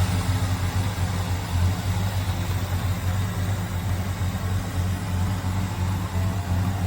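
Classic car's engine idling steadily, with a deep, even exhaust note that does not rise or fall.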